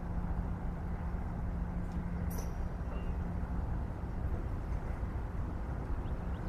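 Diesel-hauled passenger train running: a steady low rumble with a steady engine hum. A short click about two seconds in.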